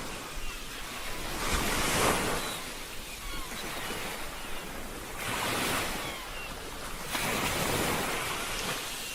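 Ocean waves breaking and washing in with wind, the surf swelling louder about three times. A few faint, short high chirps sound over the surf.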